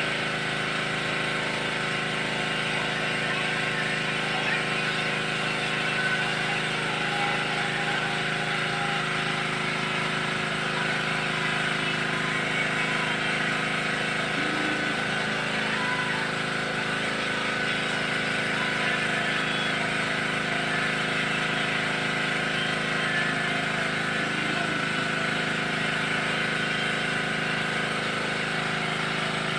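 An engine running steadily at constant speed, an unchanging hum of several held tones over a steady hiss.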